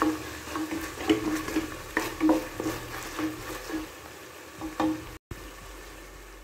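Ginger-garlic paste sizzling in hot oil in a stainless steel pressure cooker while a spatula scrapes and stirs it against the pot in repeated strokes, frying it until the oil separates. The stirring stops about five seconds in, leaving a steady sizzle.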